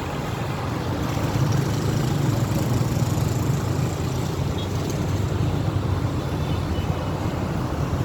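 Steady low rumble of a motor vehicle with road noise, with no distinct events.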